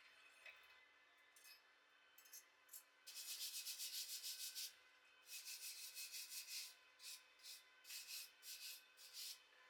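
Wire brush scrubbing a steel weld bead, in quick back-and-forth strokes. Two runs of rapid scrubbing are followed by separate, slower strokes near the end.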